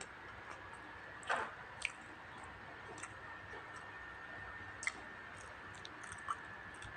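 Close-miked eating sounds: a person chewing, with a few short sharp mouth clicks and smacks spread through the clip.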